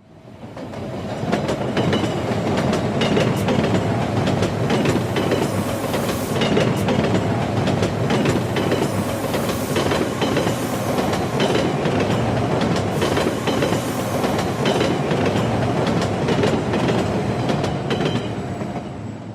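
Passenger train running on rails, with a steady rumble and irregular clacks of the wheels over the track. It fades in at the start and fades out near the end.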